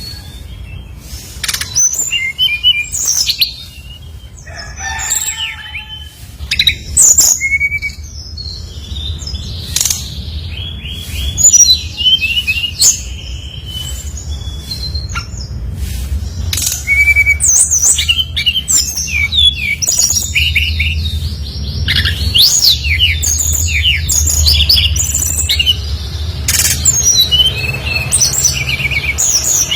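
SRDC (sikatan rimba dada coklat) songbird singing a fast, varied song of high chirps, trills and whistled notes, busier and more continuous in the second half, over a steady low hum.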